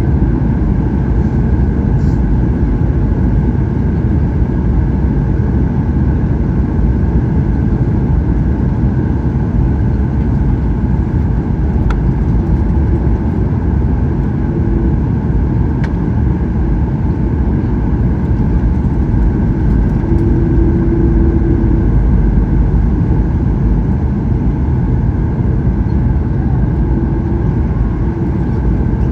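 Steady cabin noise of a Boeing 737-800 in flight: a deep, even roar of airflow and CFM56 jet engines.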